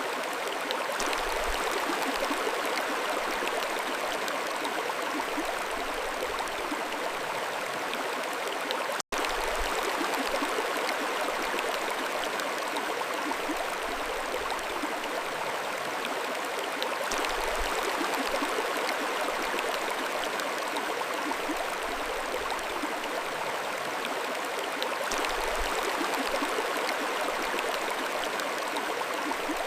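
Mountain stream flowing: a steady rush of water, broken by a very brief cut-out in the sound about nine seconds in.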